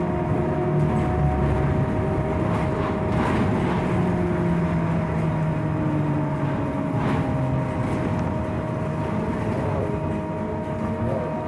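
Scania trolleybus under way, heard from inside: steady running rumble with a constant high whine from the electric drive and slowly shifting motor tones, plus a couple of knocks from the body or road. The rider calls the bus noisy and worn.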